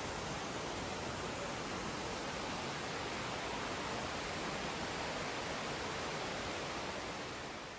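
A steady, even rushing hiss that fades out near the end.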